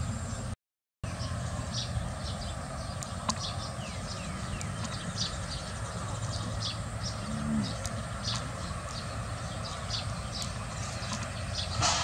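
Small birds chirping in short, high, falling notes, a few a second and irregular, over a steady low rumble. The sound cuts out briefly about half a second in.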